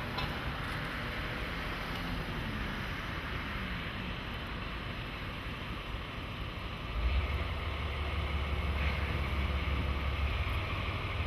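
JNR DE10 diesel-hydraulic locomotive running, its engine note gliding in pitch early on, with a deep rumble that rises abruptly about seven seconds in and holds.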